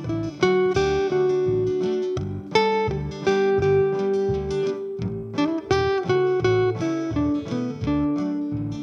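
Acoustic guitar playing an instrumental passage of a song, single notes and chords picked in a steady run, each one struck sharply and left to ring.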